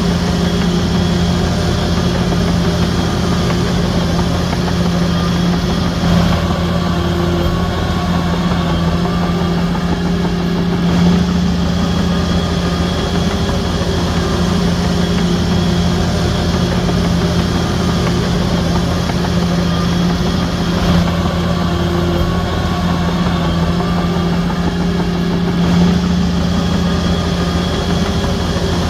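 Diesel engine of a Shantui DH17C3 crawler bulldozer running steadily under work, with a slight change in its note every five seconds or so.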